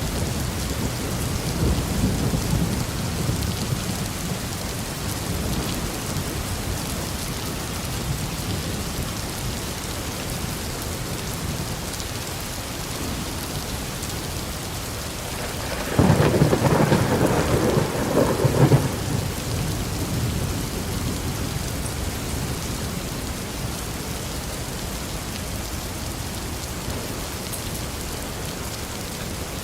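Steady rainfall with thunder: a low rumble in the first few seconds, then a sudden sharp clap of thunder about halfway through that rumbles for a few seconds before fading back into the rain.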